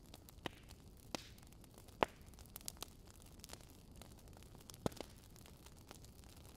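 Fireplace fire crackling: irregular sharp pops and snaps over a faint steady hiss, the loudest pop about two seconds in.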